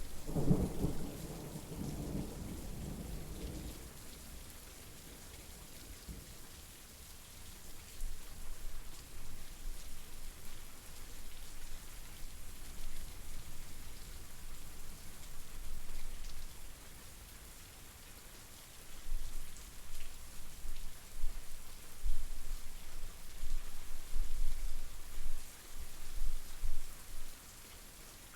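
Steady rain falling, with a loud roll of thunder at the start that rumbles on for about four seconds and fades. Low thunder keeps rumbling on and off through the second half.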